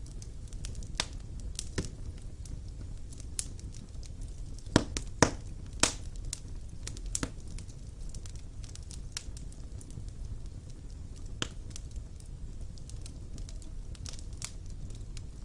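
Fire burning in a stone fireplace: a steady low rumble of flames with irregular sharp crackles and pops, a few louder pops about five to six seconds in.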